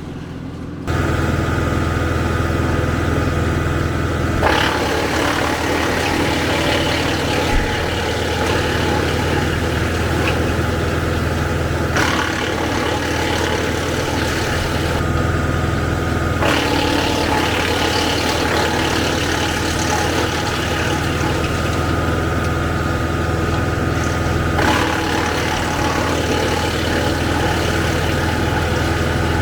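Kubota L4060 tractor's diesel engine running at high speed, driving a Woodland Mills WC68 PTO wood chipper, with a steady loud hum and hiss. The sound shifts abruptly several times.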